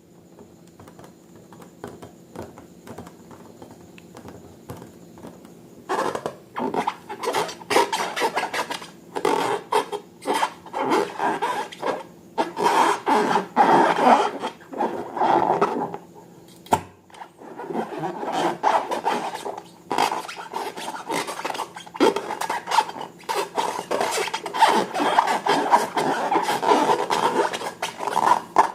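Slime being squished and worked by hand, a dense run of irregular sticky crackles and pops that starts about six seconds in after a few faint clicks.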